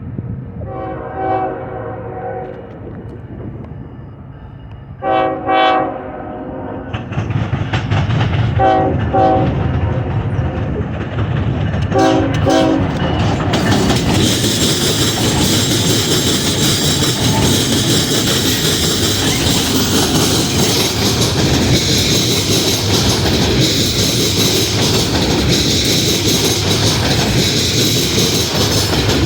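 Train horn sounding four separate blasts, the first two longer, over a growing rumble as a train approaches. From about halfway, the train passes close by with a loud, steady rush and clatter of wheels on the rails.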